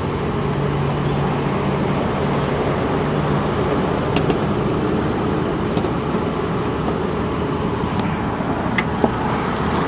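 1992 Toyota pickup's engine idling steadily, an even running note with a few faint light clicks; it runs smoothly, in sound condition.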